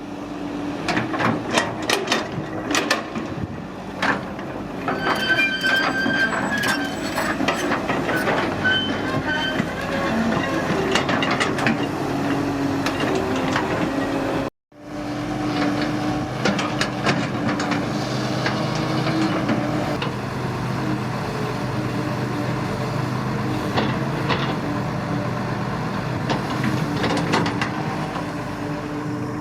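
Excavator's diesel engine running under load with repeated metallic clanks and knocks from the machine working, and a brief high whine a few seconds in. The sound cuts out abruptly for an instant about halfway.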